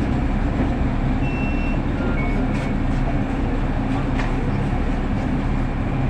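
City bus on the move heard from inside the passenger cabin: steady engine and road rumble, with a few faint short squeaks and rattles from the body.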